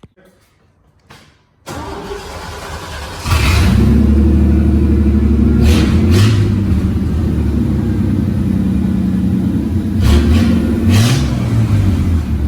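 Truck engine starting about two seconds in, then running loudly and being blipped several times, twice in quick succession near the middle and again near the end.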